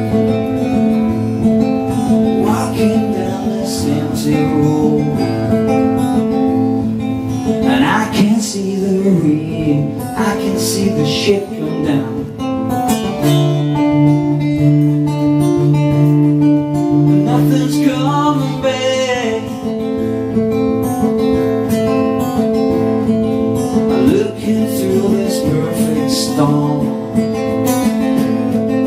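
Acoustic guitar strummed, playing a song's introduction.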